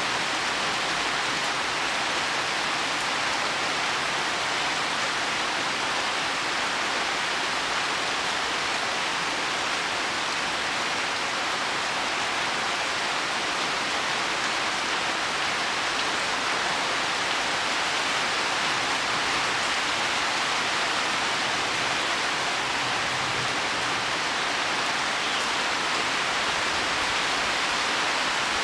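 Heavy rain falling steadily on leaves and soil, a dense, even hiss with no change.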